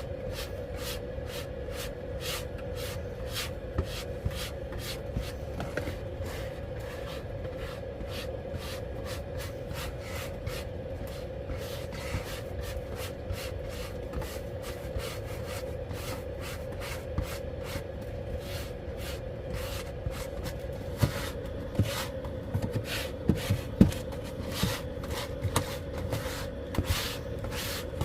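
Rubbing and scattered clicks and knocks of things being handled, over a steady hum. The knocks come thicker and louder in the last several seconds.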